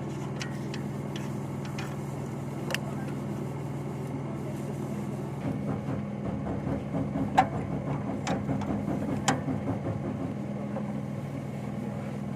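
Car engine idling with a steady hum. For several seconds in the middle it runs unevenly in pulses, with a few sharp clicks, before settling again.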